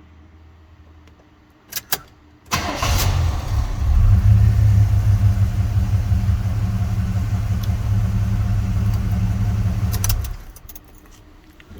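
1979 Camaro Z28's 350 V8 catching about two and a half seconds in, just after two short clicks, then running at a steady deep idle rumble. The sound drops away sharply about ten seconds in.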